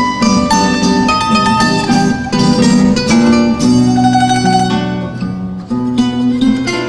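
An instrumental trio of plucked strings playing a danza: a quick picked melody over chords, with a held tremolo note over steady bass notes from about halfway.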